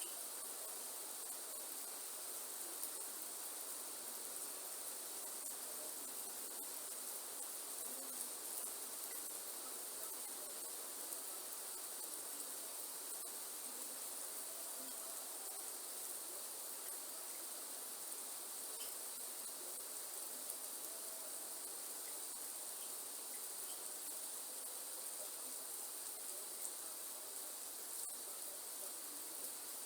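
A steady, high-pitched insect chorus over a soft, even hiss of rain.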